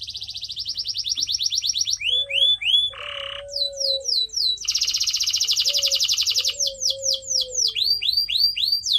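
Canary singing: a fast rolling trill that speeds up and grows louder, then a run of downward-sweeping whistled notes, a short harsh buzz, a second fast trill, and more falling whistled sweeps.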